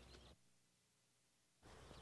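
Near silence: faint background noise that cuts out to dead silence for just over a second, then returns.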